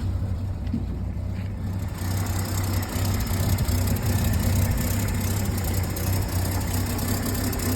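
1950s Chevrolet school bus engine idling steadily, just after starting. It has an exhaust leak. About two seconds in, a hiss joins the low rumble.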